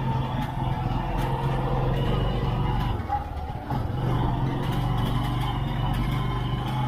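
A steady low motor hum with a fixed pitch, which dips briefly about halfway through.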